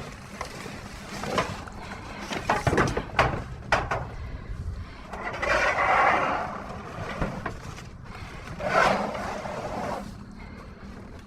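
Junk being shifted by hand in a dumpster: a run of sharp knocks and clanks, then two longer scraping rustles about five and nine seconds in.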